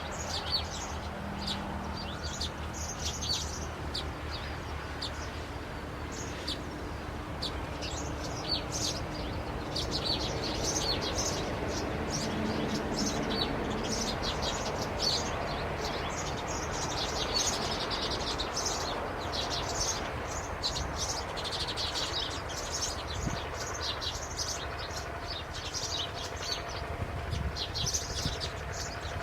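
Birds chirping: many short, high chirps repeating throughout, over a steady low background noise.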